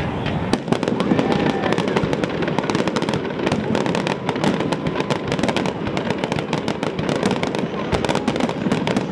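Fireworks finale: a dense, continuous barrage of overlapping bangs and rapid crackling from many shells bursting at once.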